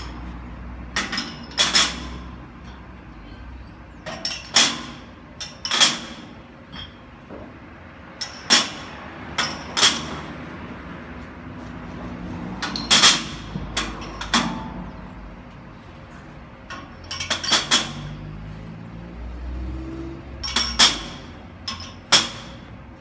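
Glass bottles clinking and knocking, about twenty sharp, ringing knocks at irregular intervals over a low steady background.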